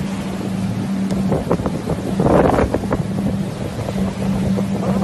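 Wind buffeting the microphone in gusts, strongest about halfway through, over the steady low hum of an engine.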